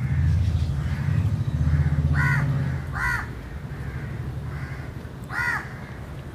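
A bird calling outdoors: three loud, harsh calls about two, three and five and a half seconds in, with fainter calls between. Under them a low rumble fades out about three seconds in.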